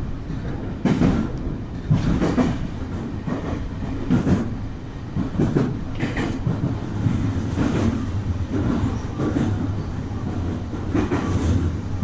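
Nankai Electric Railway train running at speed, heard from inside the front cab: a steady low rumble with irregular clacks and thumps from the wheels on the track, about one every one to two seconds.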